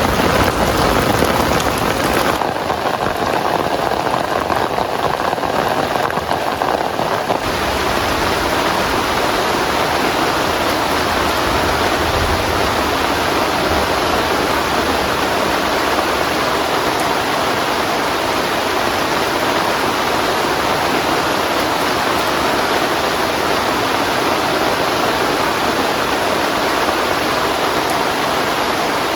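Heavy rain falling steadily, with the tail of a thunder rumble dying away in the first couple of seconds.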